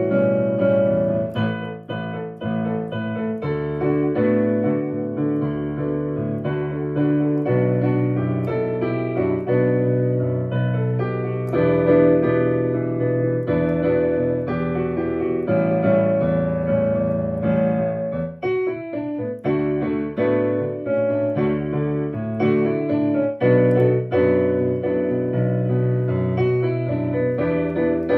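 Solo piano playing a slow pop song with sustained chords under a melody, notes ringing into one another with the sustain pedal.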